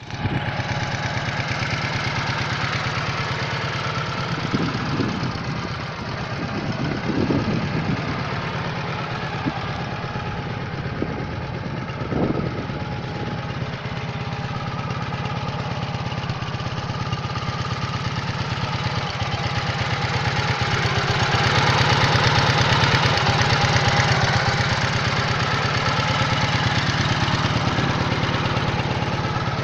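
A Dnepr motorcycle's flat-twin engine running at idle, with a few short revs in the first half and a louder stretch a little past the middle.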